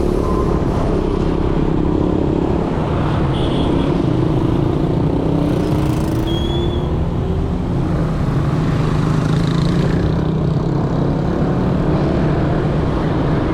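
Motorcycle engine running under way amid dense motorbike traffic, with road and wind noise. Engine pitch rises for a few seconds near the middle, and there is a brief high beep a little before the middle.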